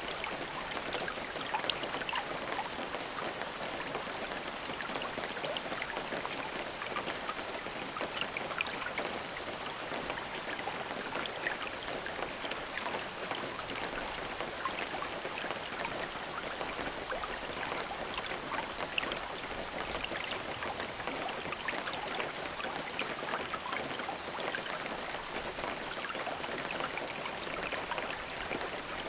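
Steady rain falling, dense patter of drops striking a surface with fine ticks throughout.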